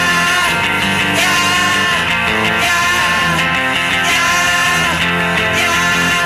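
Lo-fi indie rock song played from a vinyl record, built on strummed electric guitars, steady and full.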